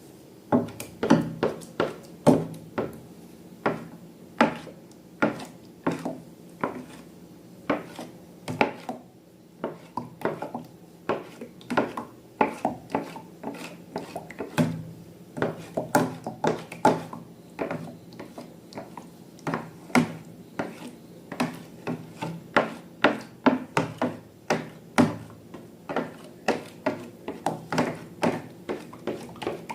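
Slime-making handling sounds: a run of sharp clicks and taps, irregular but roughly two a second.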